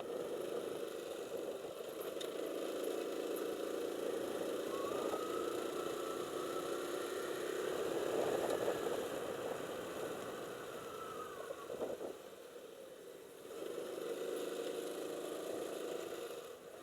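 Motorcycle engine running steadily, easing off briefly near the end, with a faint higher whine over the middle stretch.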